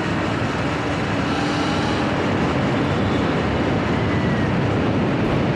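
Steady rush of wind and road noise while riding an electric bike uphill.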